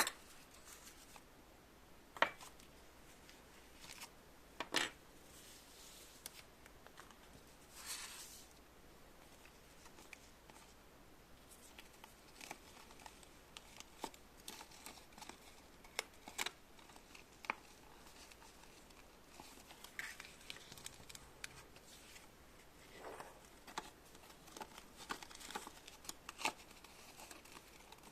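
Faint handling noise: scattered light clicks and short rustles of small objects being moved and handled, at irregular intervals.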